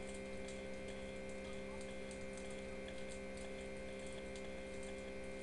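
Bonfire crackling faintly with scattered irregular ticks and snaps, under a steady electrical hum.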